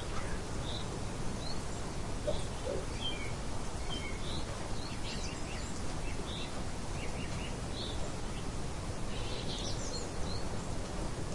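Steady rain hiss with small songbirds chirping in short, scattered high notes throughout, and two brief lower bird calls about two and a half seconds in.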